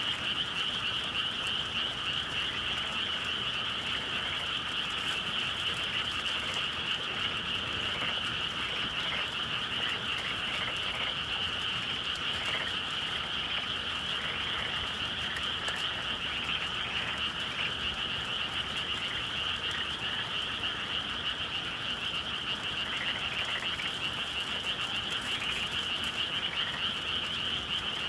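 A dense chorus of many frogs calling at once, a steady, unbroken wall of calls without pauses.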